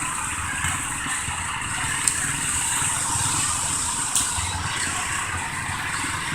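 Small garden tractor engine running steadily at low speed, with a low rumble and a steady high hiss.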